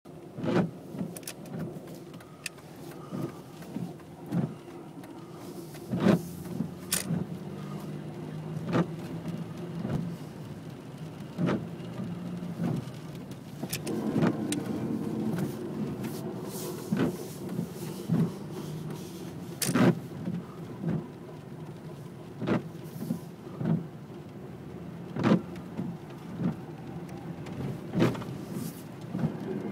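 Scattered raindrops striking a hard surface, as irregular sharp taps about one or two a second, over a steady low hum.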